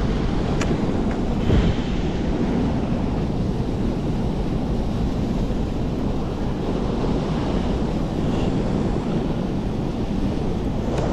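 Wind buffeting the microphone in a blizzard, over the steady rush of river current, a constant noise with no letup.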